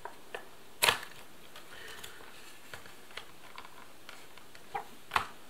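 Scattered light clicks and taps of hands working at a ration's main-meal container, trying to open it without a tool, with two sharper clicks about a second in and near the end.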